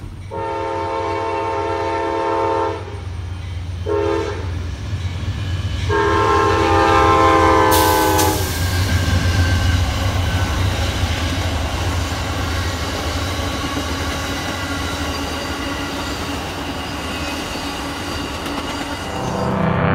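Amtrak passenger train's locomotive horn sounding three blasts, long, short, long, the last one dropping in pitch as the locomotive passes. It is followed by the steady rumble of the passenger cars rolling by.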